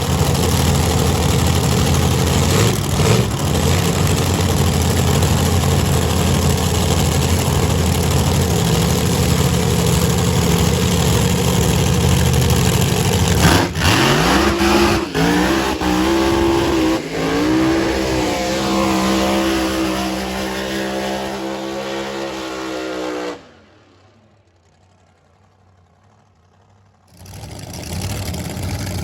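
A drag-racing funny car's big engine running loud and hard. About 14 s in its note swoops up and down, then settles into a steady, slowly falling drone. The sound cuts off suddenly about 23 s in, and engine noise picks up again near the end after a few seconds of near quiet.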